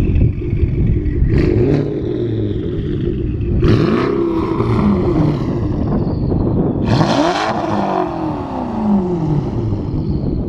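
Porsche Panamera Turbo's twin-turbo V8 running through a custom GT3-style stainless exhaust, revving up and dropping back twice, with short sharp bursts of noise at the peaks.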